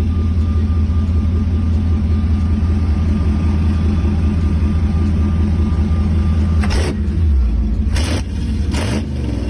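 Engine of a 1948 Willys Jeep rock crawler idling with a steady, low hum. Near the end come three short, sharp bursts of noise about a second apart, and the engine's pitch briefly shifts.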